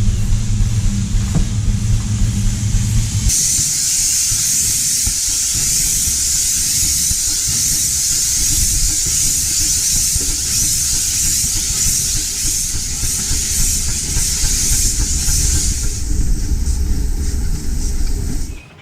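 Small steam locomotive of a 15-inch gauge railway, with a low rumble throughout. A few seconds in, a loud hiss of steam starts suddenly and lasts about twelve seconds. The sound cuts off sharply near the end.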